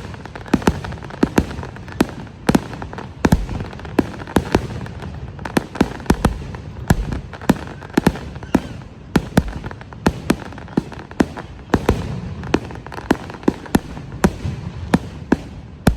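Fireworks going off: a rapid, irregular run of sharp bangs, several a second, over a continuous low rumble.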